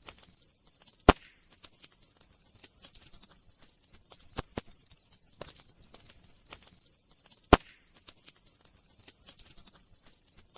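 Campfire crackling: a steady scatter of small crackles with a few sharp, loud pops, the loudest about a second in and again about seven and a half seconds in.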